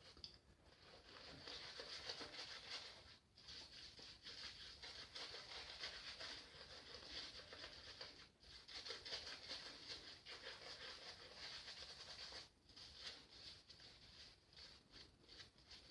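Vintage Gem Faynett lather-catcher razor cutting through lathered stubble: a faint, fine crackling scrape in long strokes, broken by short pauses between them.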